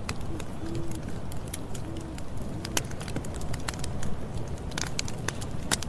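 Campfire crackling and popping over a steady low rumble, with frequent sharp snaps of burning wood. In the first half a bird gives about four short, low cooing calls.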